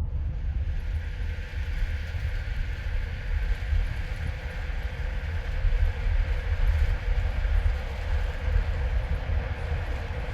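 Steady low rumble inside the cabin of an Airbus A350-900: its engines and the rushing air heard from a passenger seat, with no distinct knocks or changes.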